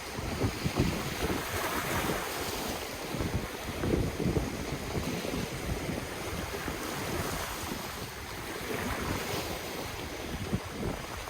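Ocean surf washing in continuously, swelling about two seconds in and again near the end, with wind buffeting the microphone.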